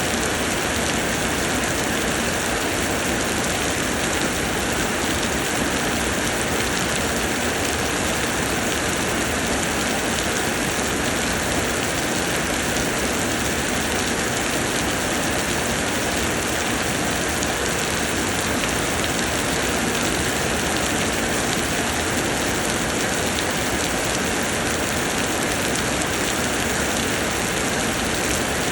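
Steady heavy summer rain: an even, unbroken hiss of falling rain with a fine patter of drops.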